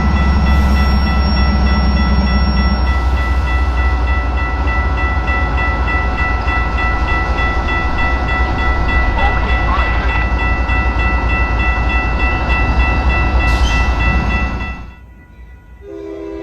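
Freight train running close by: a steady, loud diesel locomotive rumble with several steady high-pitched tones held over it. It drops away abruptly near the end.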